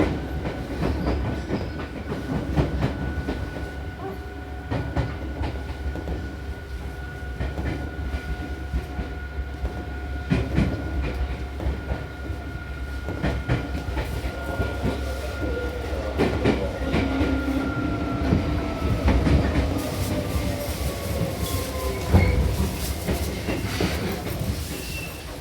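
Seibu New 2000 series electric train running, heard from inside the car as it slows for the terminus: a steady whine that falls in pitch in the second half, over repeated wheel clacks on rail joints, with a brief squeal near the end.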